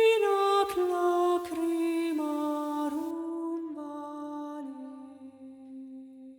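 A single voice singing a slow, wordless melody: about eight held notes stepping down in pitch, fading away near the end.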